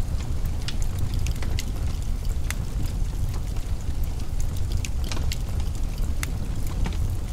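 Wood fire crackling, with irregular sharp pops, over a steady low rumble of wind from a snowstorm.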